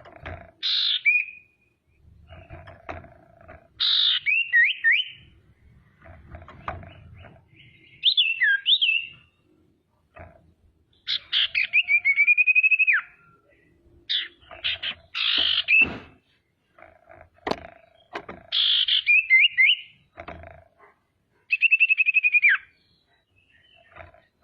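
Female common iora (sirtu, cipoh) singing: about seven short phrases of sharp notes and whistles that slide and fall in pitch, each a second or so long and a few seconds apart. It is a lure song meant to set other sirtu singing.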